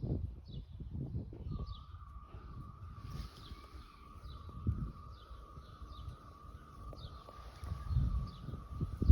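Birds calling outdoors, a short falling chirp repeated about twice a second. A steady wavering tone comes in about a second and a half in and a high steady hiss joins about three seconds in, over irregular low rumbling.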